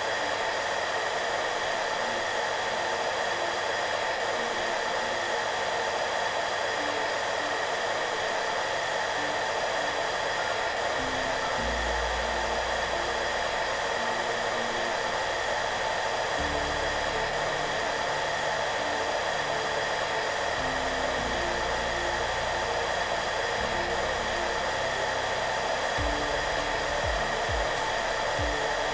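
Hair dryer running steadily with an even rushing noise. Soft background music plays underneath, its low notes growing deeper and fuller about a third of the way in.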